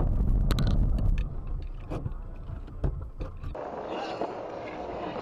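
Road and engine rumble inside a moving car, picked up by a dashboard camera, with a few sharp knocks. About three and a half seconds in the sound changes abruptly to a quieter, steady hiss of driving noise.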